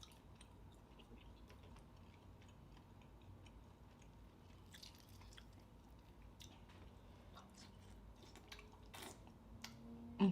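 Quiet chewing and mouth sounds of a person eating seafood, with scattered small clicks and smacks.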